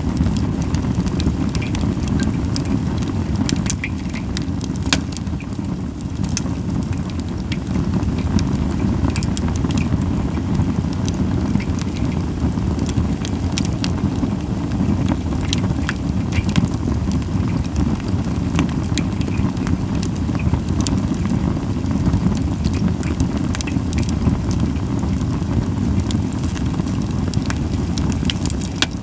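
Japanese white pine wood fire burning, with frequent sharp crackles and pops scattered over a steady low rumble. The hissing is slight, as softwood burns.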